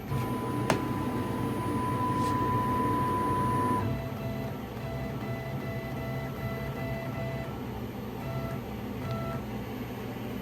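Laguna Swift CNC router's Z-axis stepper motor whining as the spindle is jogged down to zero the Z axis. A steady tone runs for about four seconds with a click about a second in, then a lower tone comes in shorter runs, with two brief blips near the end.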